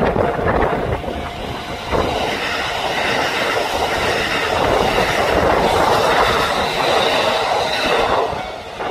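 Electric train running along the track, its wheels clacking over rail joints, with a high steady ringing tone over the running noise in the middle that fades near the end.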